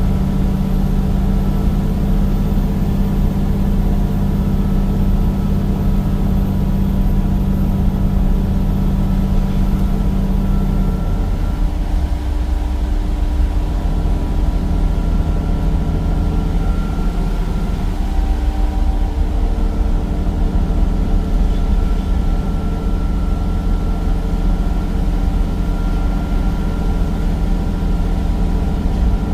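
Cummins diesel engine of a Temsa Avenue bus running steadily, with a faint high whine that comes and goes. About eleven seconds in, the engine note changes and settles lower.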